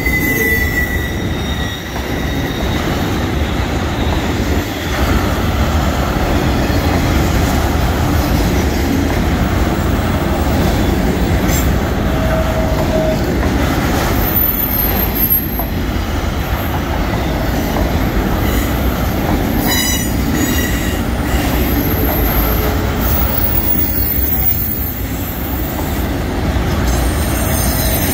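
Freight train of autorack cars rolling past at close range: a steady, loud rumble and rattle of steel wheels on rail, with a few brief wheel squeals.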